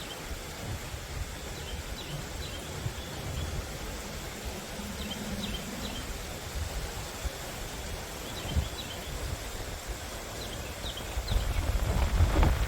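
Outdoor ambience of wind rumbling on the microphone, strongest in a gust near the end, with faint high chirps repeating now and then.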